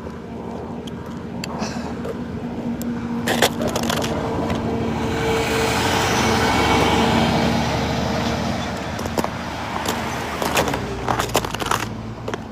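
Street traffic: a motor vehicle passes, its tyre and engine noise swelling to a peak about halfway through and then fading, over a steady engine hum, with a few short clicks and knocks.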